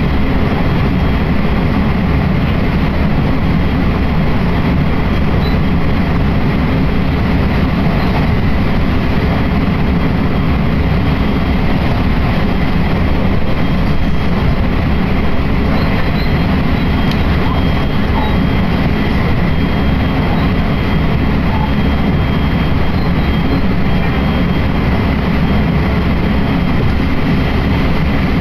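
Running noise of a passenger train heard from inside the carriage: a steady, even rumble of wheels on the track, with a faint steady high whine over it.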